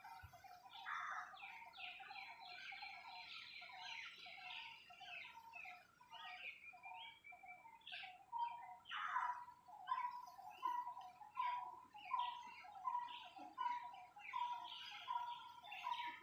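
Birds calling: one keeps up a long series of short, even notes repeated a little faster than once a second, while louder bursts of higher chattering come and go over it.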